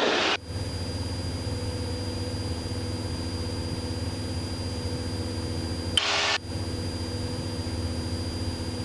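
Cessna 172's piston engine running steadily at climb power just after takeoff, heard from inside the cabin as a constant drone with a thin high whine over it. About six seconds in there is a brief burst of noise with a click at its start.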